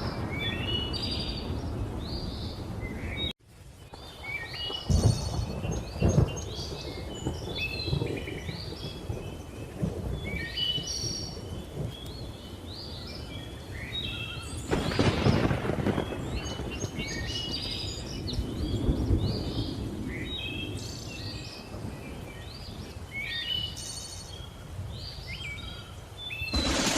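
Thunderstorm ambience: low thunder rumbling over steady rain, swelling loudest about five and about fifteen seconds in, while many birds chirp and call without pause. The whole mix cuts out for a moment about three seconds in.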